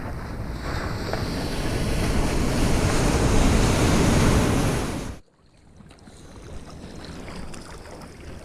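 Ocean water and wind rushing loudly over a small camera microphone while swimming in the sea. About five seconds in the sound drops off suddenly to a much quieter, muffled water rush.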